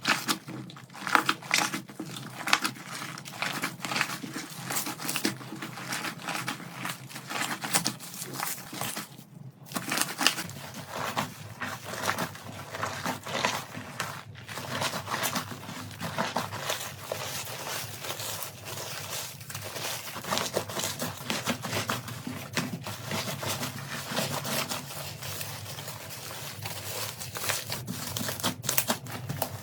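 Slime being squeezed, poked and stretched by hand: a dense, continuous run of small crackles and pops, broken by two short gaps.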